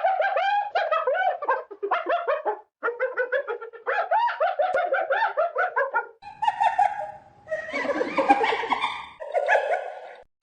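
An animal calling, bird-like, in long bursts of quick rising-and-falling pitched notes, several a second, turning harsher and noisier about six seconds in.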